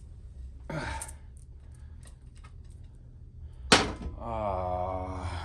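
A single sharp knock about two-thirds of the way in, followed by a man's drawn-out hummed or groaned note lasting over a second.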